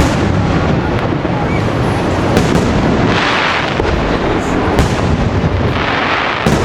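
Aerial fireworks display: a continuous rumble of shell bursts with repeated sharp bangs, and crackling bursts about three seconds in and again near the end.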